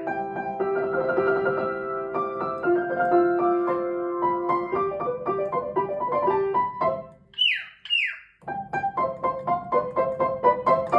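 Piano music playing a melody. About seven seconds in, the notes break off for two short whistles that fall steeply in pitch, one just after the other, then quicker piano notes resume.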